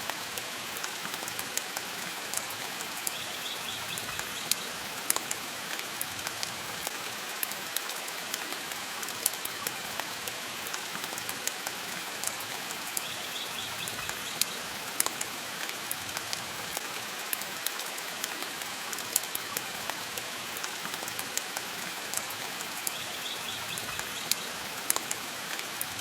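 Steady rain hiss mixed with the crackle of a wood fire, with frequent sharp pops from the burning logs.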